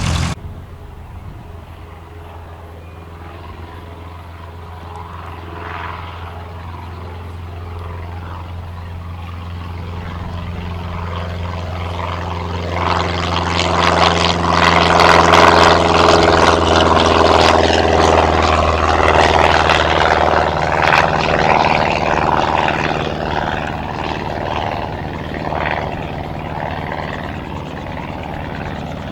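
Cessna 162 Skycatcher's four-cylinder Continental O-200 engine and propeller running steadily. The sound grows louder and rougher over the first half, peaks past the middle, and eases slightly near the end.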